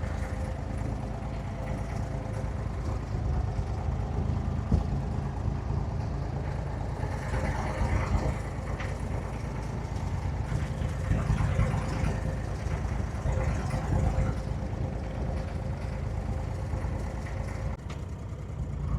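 Boat engine idling steadily, a low hum with a faint steady tone above it, with faint voices nearby in the middle.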